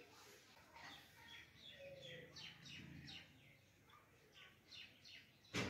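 Faint birdsong: a run of short, quickly falling chirps, repeated many times. A single sharp click comes near the end.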